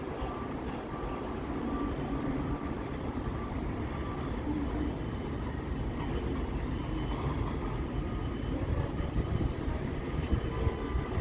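New York City subway train running, a steady rumble with faint high tones over it.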